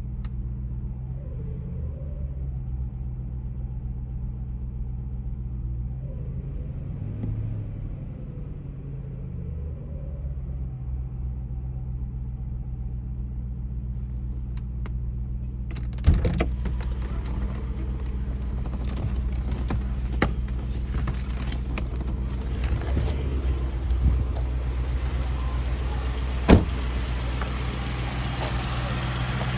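Ford Thunderbird engine idling steadily while warming up after a cold start, a low even hum. From about halfway a louder hiss joins in, with a few sharp knocks, the strongest about ten seconds before the end.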